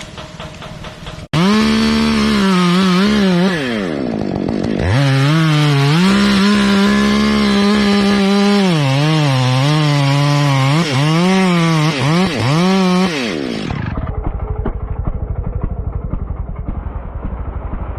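Chainsaw running at high revs, its engine pitch wavering, dipping and recovering as it works, then winding down. A muffled low rumble follows near the end.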